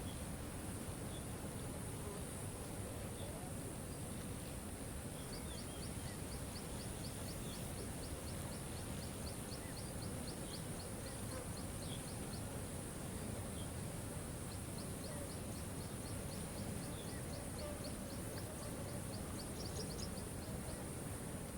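Waterfall rushing steadily, with a bird singing over it: two runs of quick high notes, about five a second, each lasting several seconds, and a few scattered single chirps. A steady high hiss runs underneath.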